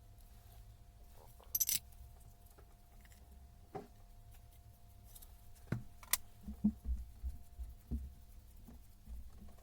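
Metal parts and tools being handled on a workbench: a bright metallic clink, a few sharp knocks, then a run of dull thumps, over a faint steady hum.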